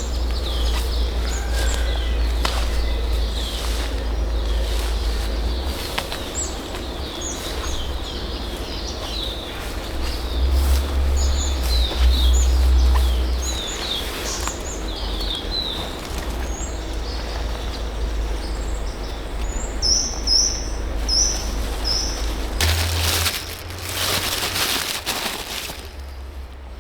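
Several wild birds chirping and calling with short high notes, with a quick run of repeated high notes about three quarters of the way through, over a steady low rumble. Near the end a loud burst of rustling noise covers the calls.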